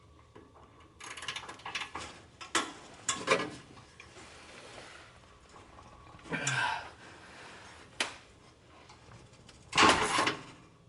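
Hand tools working on the car's underbody: scattered ratchet clicks and metallic clanks, with a loud metal clatter about ten seconds in.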